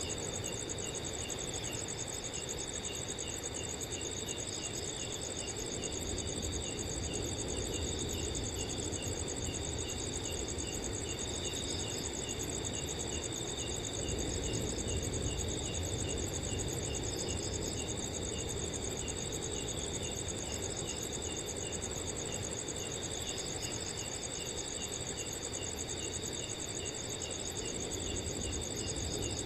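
Several crickets chirping together: a steady high trill, with a slower, regular series of chirps at about two a second. Beneath them is a low, steady rush of wind.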